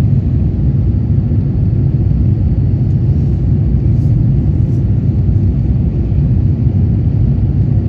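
Steady low rumble of jet engines and airflow heard inside the cabin of an Airbus A350-900 in flight, with its Rolls-Royce Trent XWB engines at high power.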